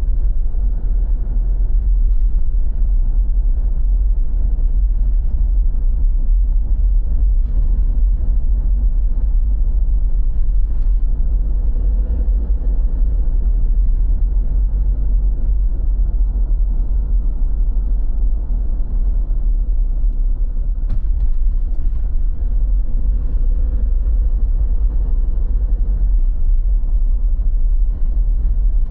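Steady, loud low rumble with a faint engine-like hum, typical of road vehicle noise.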